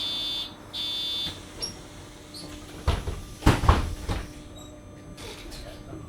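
Two short high electronic beeps, the door-closing warning of an MAN Lion's City Hybrid city bus, followed a couple of seconds later by the doors shutting with a cluster of loud knocks and thuds.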